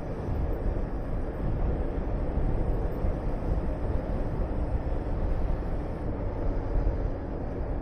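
Honda VTR250 V-twin engine running at a steady pace while riding, under heavy wind rushing over the camera microphone.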